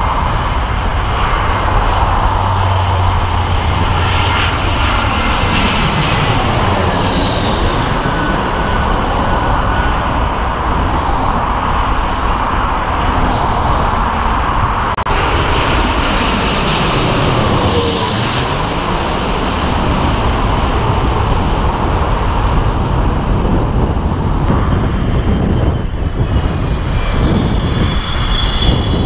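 Jet airliners on final approach passing low overhead, one after the other, with loud engine and airflow noise that sweeps in pitch as each one goes over.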